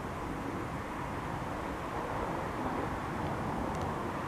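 SEPTA GE Silverliner IV electric multiple-unit train approaching: a steady rumble of wheels on rail that grows slightly louder as it nears.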